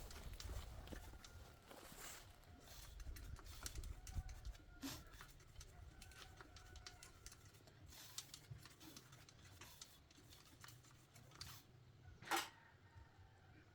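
Near silence: faint scattered clicks and light taps, with one sharper click near the end.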